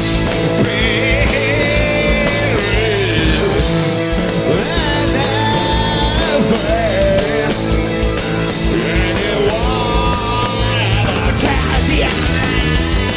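A loud live rock band playing dense heavy rock with electric guitar.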